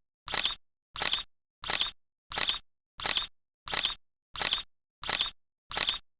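A short, sharp, noisy click-like sound repeated evenly nine times, about every 0.7 seconds, with dead silence between the strokes: an edited-in sound effect rather than the scene's own sound.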